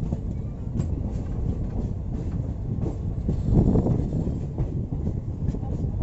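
Passenger train running along the track: a steady low rumble with scattered, irregular clicks of the wheels over rail joints.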